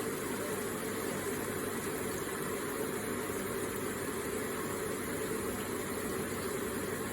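Electric garden water feature running: water trickling and splashing in a steady, even stream.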